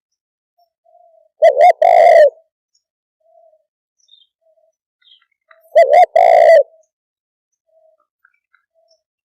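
Spotted dove cooing: two loud call phrases about four seconds apart, each two short notes followed by a longer one, with fainter short coos in between.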